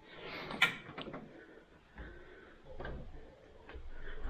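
A few scattered light clicks and knocks with soft rustling: shoes being taken off.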